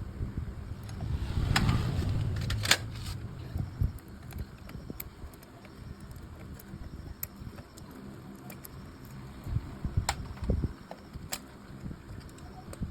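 Mechanical work sounds: a few sharp clicks and knocks of tools on metal over a low hum, with a louder low rumble early on.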